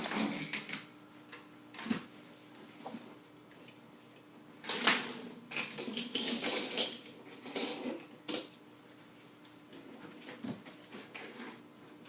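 Toy trains being handled and set down, with scattered knocks and clacks of small hard objects. The loudest knock comes about five seconds in, and a run of clacks follows over the next few seconds.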